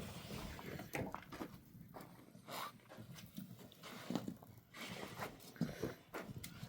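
Scattered faint cracks and rustling as something is snapped and handled by hand.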